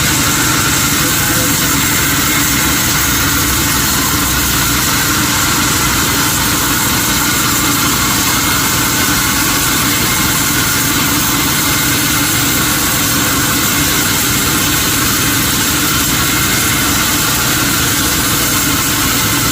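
Sawmill machinery's engine running steadily, with no change in pitch or loudness.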